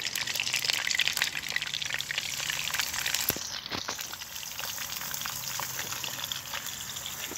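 Pieces of duck and partridge sizzling and spitting in a hot wok, a dense steady crackle with many small pops.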